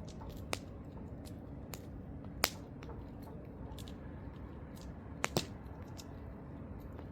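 Campfire crackling: wood popping in irregular sharp snaps over a low steady hiss, with one loud pop about two and a half seconds in and a close pair of pops a little after five seconds.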